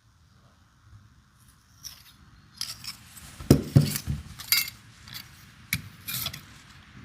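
Metal tools and parts being handled: a few scrapes, then a run of sharp clinks and knocks, the loudest pair about three and a half seconds in.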